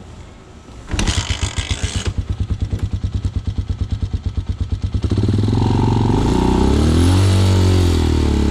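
Hawk 250 dual-sport motorcycle's single-cylinder engine kick-started from cold: it catches about a second in and idles in even, rapid pulses. About five seconds in the throttle is opened and it runs louder, revving up and back down around seven seconds.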